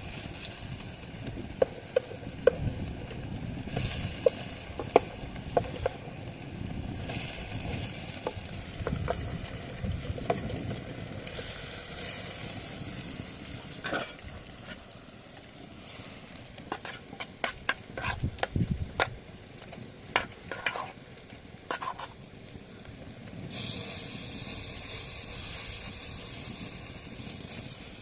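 Food sizzling as it fries in a pan, stirred with a utensil that clicks and knocks against the pan. A louder, higher sizzle sets in near the end.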